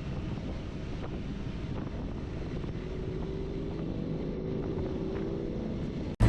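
Wind rushing over the microphone while riding a Triumph Speed 400, with the single-cylinder engine's drone underneath, its pitch rising slowly in the middle. The sound cuts off abruptly just before the end.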